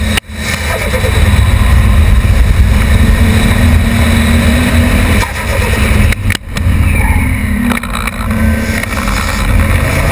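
Nissan Skyline R33 GTS-T's turbocharged straight-six under way, heard from outside the car beside the front wheel, mixed with heavy wind rush on the microphone and tyre noise. The sound dips sharply and briefly twice, at the very start and about six seconds in.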